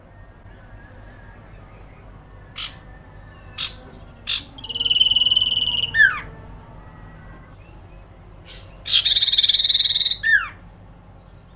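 Common iora (cipoh) calling: a few sharp ticks, then a buzzing trill of about a second and a half, a short down-slurred whistle, and near the end a louder harsh rattle followed by another falling note.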